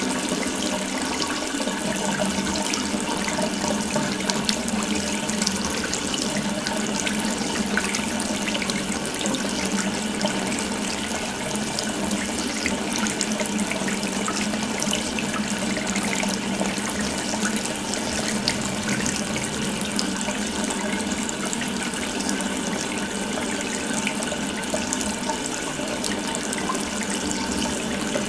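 Water running steadily from an open faucet, a continuous even splashing stream.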